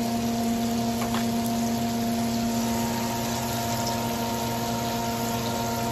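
Chicken frying in a pan of hot oil, a steady sizzling and bubbling, over a steady mechanical hum.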